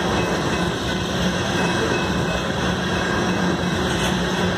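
Loaded freight cars rolling past on the track: the steady noise of steel wheels running on the rails.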